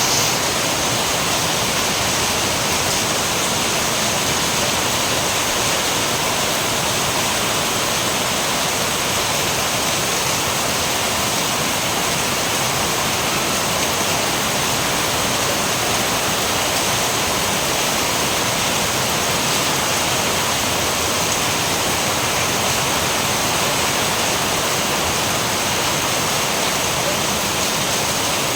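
Steady heavy rain: a constant, even hiss with no breaks or separate drops standing out.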